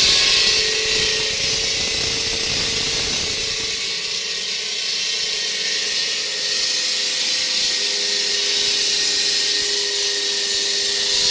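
Concrete-cutting saw running steadily: a constant loud hiss over a steady motor whine.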